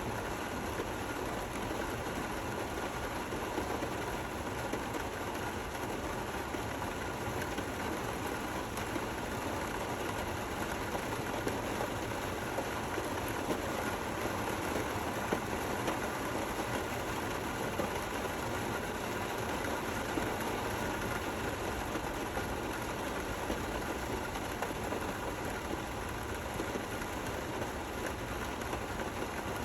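Steady, gentle rain falling, with small scattered drop ticks over an even hiss.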